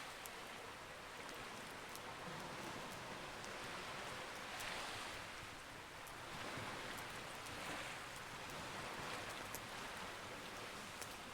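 Campfire crackling with sharp, scattered pops over a steady wash of ocean waves that swells and eases every second or two.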